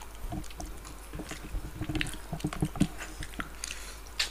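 Two people eating rice and curry by hand: irregular wet chewing, lip-smacking and small clicks, picked up close by a table microphone.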